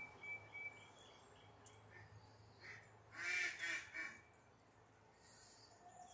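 A bird calling outdoors: two short, loud calls close together about three seconds in, with a few faint high chirps near the start.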